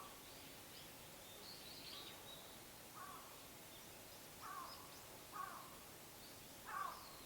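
Faint birds calling outdoors: four short calls in the second half and scattered higher chirps over a quiet background hiss.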